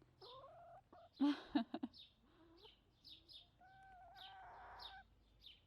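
Backyard hens clucking and calling close by, with a few loud, sharp taps about a second in. Small birds chirp throughout.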